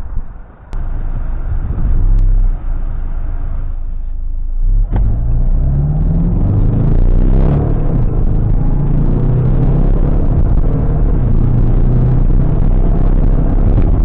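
Mazda CX-5's turbocharged four-cylinder diesel engine running, then accelerating hard from about five seconds in for a 0 to 100 km/h run. Its note rises and falls in waves as it pulls through the gears.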